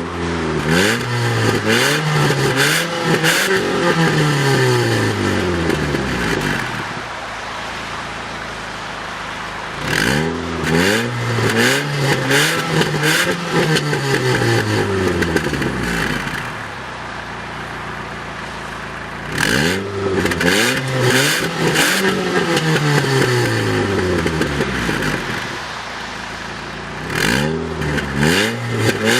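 TagAZ Aquila's 1.6-litre four-cylinder engine free-revved while parked, in three long series of throttle blips, each rising quickly and falling back, with steady idle between them and a fourth starting near the end.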